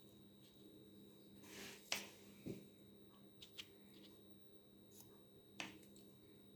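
Quiet room tone with a steady low hum, broken by a few faint, sharp clicks and light taps. The loudest click comes about two seconds in, after a brief soft rustle.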